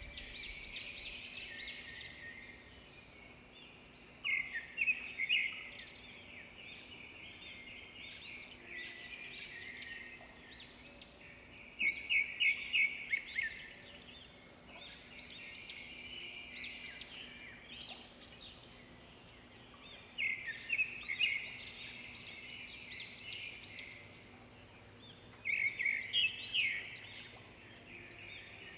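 Several small songbirds chirping and singing over one another, with louder trilled phrases returning every several seconds.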